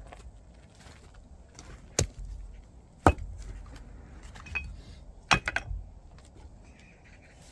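Firewood logs being split: three sharp chopping blows on wood, about a second and then two seconds apart. The middle blow is the loudest, and the last is followed by a quick rattle of smaller knocks.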